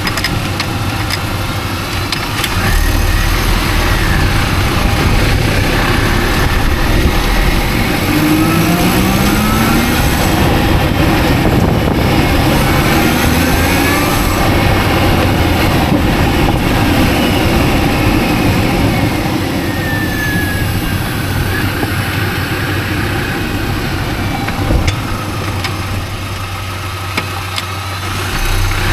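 Mini Cooper S (R52) supercharged four-cylinder engine running, with the pitch rising and falling as the car pulls away and slows. A couple of sharp knocks near the end: the front-left knock the owner puts down to a driveshaft.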